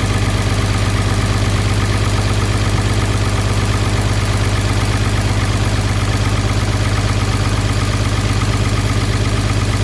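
5.9 Cummins inline-six turbo diesel in a 2007 Ram 2500 idling steadily with an even, rapid firing rhythm, running on a newly fitted number-four injector.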